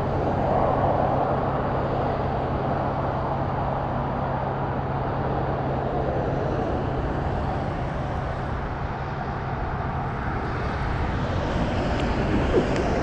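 Steady drone of a distant engine over a wash of outdoor noise, its low hum fading out about six seconds in.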